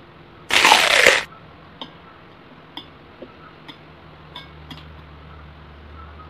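Eating sounds: a loud, noisy burst just under a second long about half a second in, followed by several light, scattered clicks of wooden chopsticks against plastic food trays.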